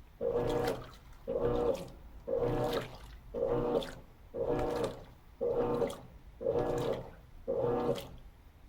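Electrolux LT13B top-load washing machine agitating a load of sheets and towels in water: about one agitator stroke a second, each a short swish of sloshing water with motor hum. This is the initial agitation of the bed-and-bath cycle, and the strokes stop near the end.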